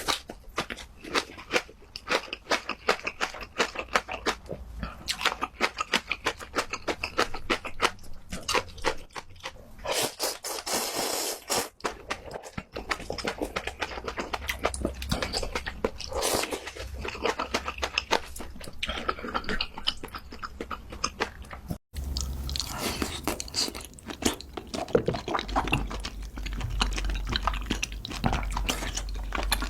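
Close-miked mukbang eating of Buldak ramen: a constant stream of quick wet chewing smacks and crunches, with a break about 22 seconds in where the sound cuts and picks up again.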